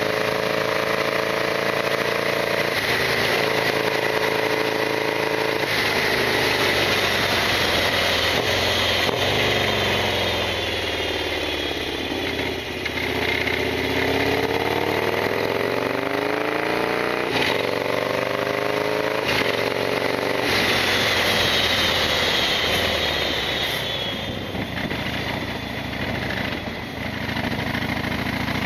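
Harley-Davidson XL1200R Sportster's air-cooled V-twin engine running under way, its revs climbing and dropping several times.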